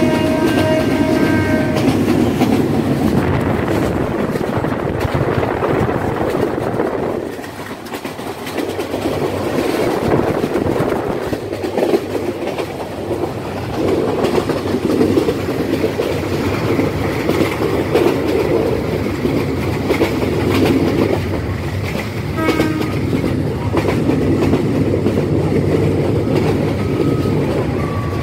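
Train running at speed, heard from aboard: a steady rumble with the clickety-clack of wheels over rail joints. The train's horn sounds for about the first two seconds.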